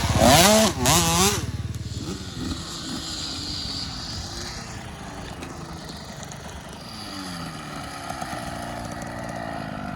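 Dirt bike engine revving up and down close by, dropping away suddenly about a second and a half in. After that, fainter dirt bike engines rise and fall in pitch, further off.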